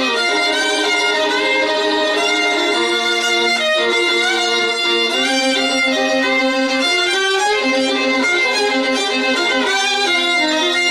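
Violin music: bowed notes held and moving from pitch to pitch, with several notes sounding at once.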